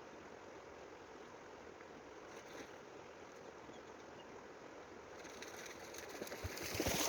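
A steady, quiet rushing noise of the outdoors that swells near the end, with a few short knocks.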